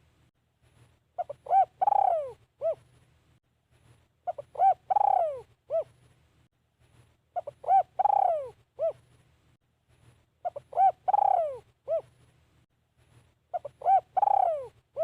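Spotted dove cooing, the same phrase repeated five times, about once every three seconds: a few short coos, a long coo that falls in pitch, then a couple of short notes.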